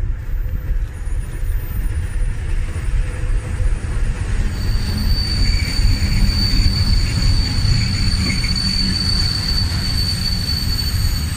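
A train hauled by a diesel locomotive rolling past at close range, its wheels giving a steady low rumble. About four and a half seconds in, a steady high-pitched wheel squeal sets in and holds until near the end.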